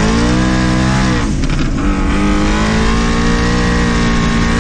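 Twin-turbo Ford Mustang engine at full throttle, heard from inside the cabin, its pitch climbing hard. About a second and a half in, the pitch drops sharply as it shifts up a gear, then climbs again.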